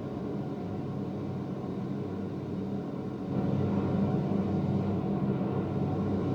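Film soundtrack of a steady engine drone, a low hum of stacked tones, played back through in-ceiling home theater speakers and heard in the room; it gets louder about three seconds in.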